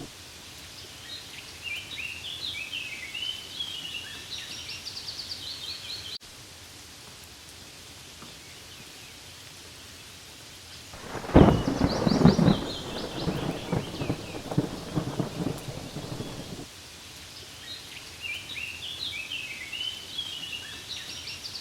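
Steady rain pattering on leaves, with a bird singing short repeated phrases several times. About eleven seconds in, a rumble of thunder rises and lasts about five seconds, the loudest sound in the stretch.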